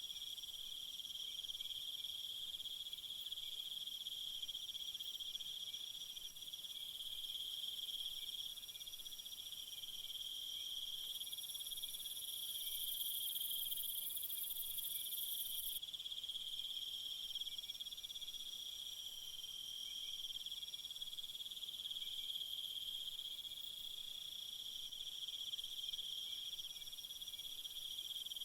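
A chorus of crickets trilling steadily, with a higher-pitched shrill layer that grows louder for a few seconds in the middle.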